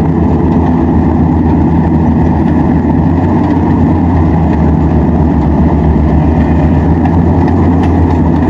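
Bimo combine harvester's engine running steadily while harvesting rice, a constant loud low hum.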